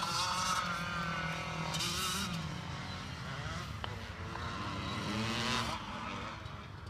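Motocross bike engines revving on the track, the pitch climbing and holding high, dropping about two seconds in, then climbing again before fading away near the end.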